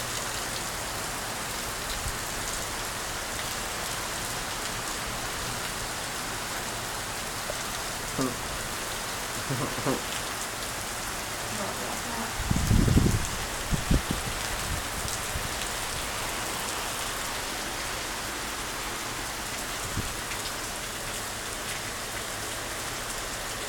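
Heavy rain pouring down steadily, an even hiss of rain falling on surfaces. About halfway through there is a brief low thump.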